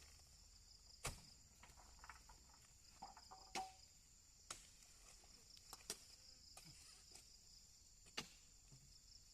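Insects chirring steadily at a high pitch, with a few sharp knocks about one to two seconds apart.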